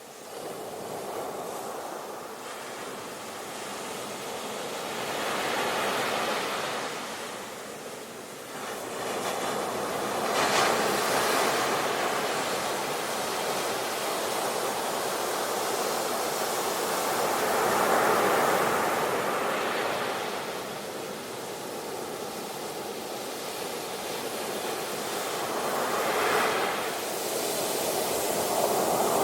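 Ocean waves breaking and washing on the shore, a continuous surf that swells and ebbs every few seconds, with the strongest surges about ten seconds in and near the end.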